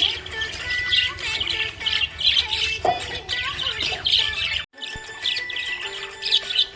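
Budgerigars chirping and chattering in a dense, rapid stream of high chirps and squawks, with a brief dropout a little past halfway.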